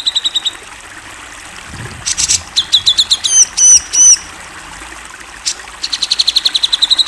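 Grey-cheeked bulbul (cucak jenggot) singing in a loud, varied song. A harsh rasp about two seconds in gives way to a quick run of clear notes, then looping whistled notes, and near the end a fast rattle of evenly repeated notes.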